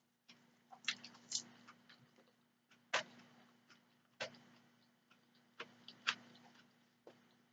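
Close-up eating sounds of spaghetti: irregular sharp wet clicks and smacks, about a dozen, the loudest about three and six seconds in, over a faint steady hum.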